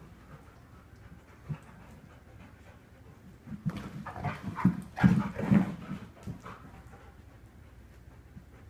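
Dog breathing heavily in quick, irregular breaths. The breathing grows louder and busier from about three and a half to six and a half seconds in, then settles back down.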